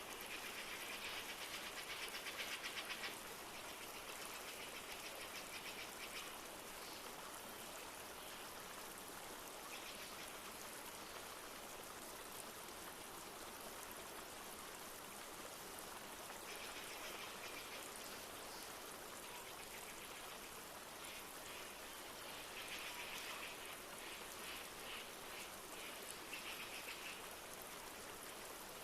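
Steady rush of a flowing river with light rain, a soft even water noise throughout. A rapid, high-pitched pulsing trill from a forest creature rises over it three times: at the start, about midway, and again near the end.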